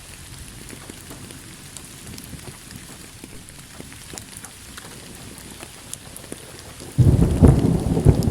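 Steady rain pattering, with scattered sharp drop hits. About seven seconds in, a loud, sudden clap of thunder breaks in and rolls on.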